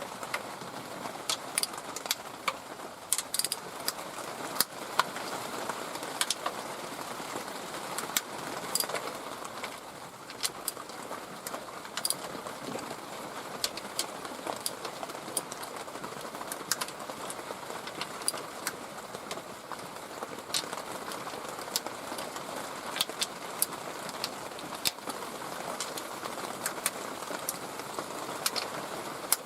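Scattered light clicks and taps, irregular and unrhythmic, over a steady outdoor background hiss: hand tools being handled during work on the engine.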